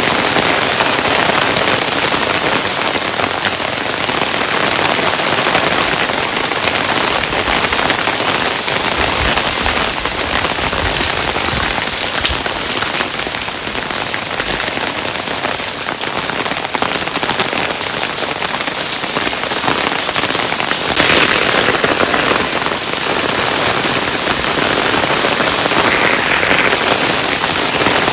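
Hailstones falling steadily, a dense, unbroken patter of countless small impacts on a hard surface.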